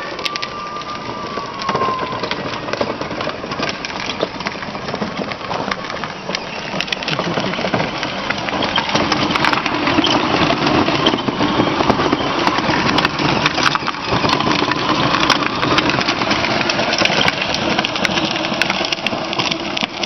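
Battery-powered Power Wheels ride-on fire engine being driven, its hard plastic wheels crackling and clattering over the ground, louder from about eight seconds in.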